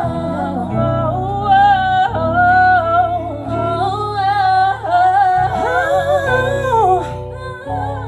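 Live R&B band: a singer's sung runs, gliding up and down through the notes, over steady sustained keyboard chords and bass.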